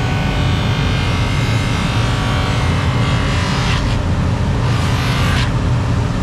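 A loud, steady mechanical roar with a deep rumble under an even hiss. The hiss thins out briefly about four seconds in and again near the end.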